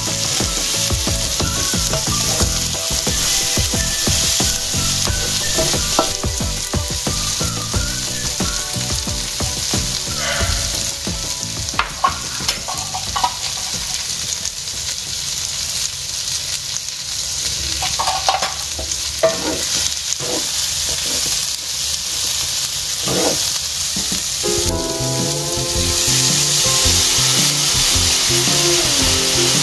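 Chicken and rabbit pieces with green beans sizzling in olive oil in a paella pan, stirred and scraped with a wooden spatula, with a few knocks. Near the end, water is poured into the hot pan and the hiss grows louder.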